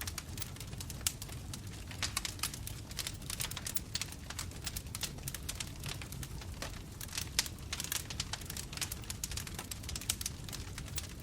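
Bonfire burning, with dense, irregular crackles and sharp pops of burning wood over a low, steady rumble of flames.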